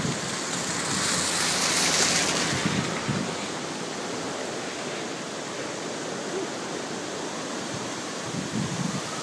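Storm wind rushing over the microphone, a steady noise that swells into a louder hiss for a second or two about a second in.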